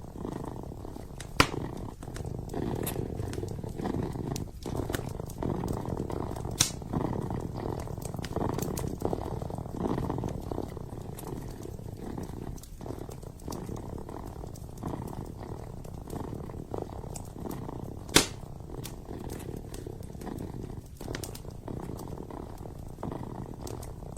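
Kitten purring steadily and close, with a few sharp pops from a burning wood fire, the loudest about eighteen seconds in.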